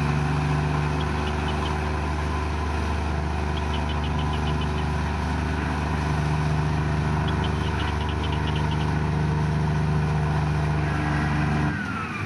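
Komatsu bulldozer's diesel engine running steadily, with a few short runs of rapid high-pitched ticking. Near the end the sound drops briefly and changes abruptly.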